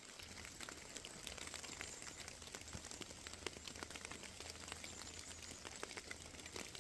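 Faint, dense patter of small ticks and crackles over a low steady rumble, from rain and wet undergrowth brushing past while moving through the woods.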